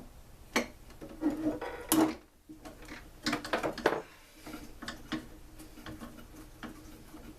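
Metal tools and blower parts being handled during a teardown: a string of clinks and short clatters, busiest in the first four seconds and sparser after.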